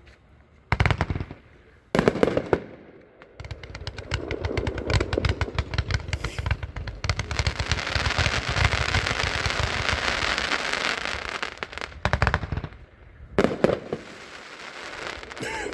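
Winda 'Pandemonium' 142-shot consumer fireworks cake firing. There are two sharp reports in the first two seconds, then a long dense run of rapid shots and crackling breaks that swells in the middle and dies away, and two more sharp reports near the end.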